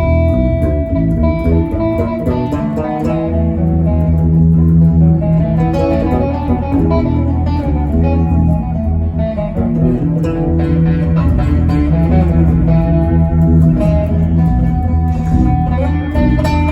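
Band music in an instrumental passage: electric guitar over bass guitar, loud and steady throughout.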